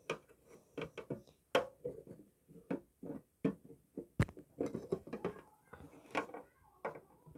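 Irregular small clicks, taps and rattles of enclosure parts being handled and pushed into place, a few sharper knocks among softer ones, the loudest about four seconds in.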